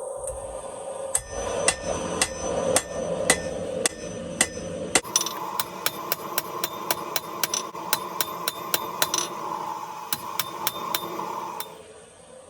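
Hand hammer striking 5/8 in mild steel round stock on an anvil while forging tongs. The blows ring and come about two a second, then speed up to about three a second about five seconds in, with a steady hum underneath. The strikes stop shortly before the end.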